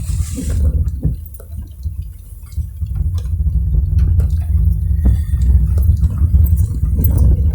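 Raindrops ticking irregularly on a car's body and glass over the steady low rumble of the car driving on a wet road, with a brief hiss at the start.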